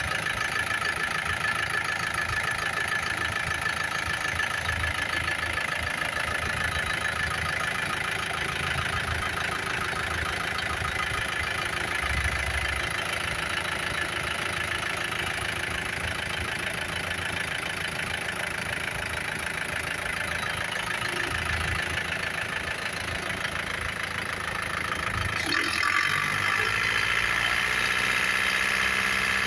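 2013 Isuzu Sportivo engine idling steadily. About 26 seconds in its note changes and grows slightly louder.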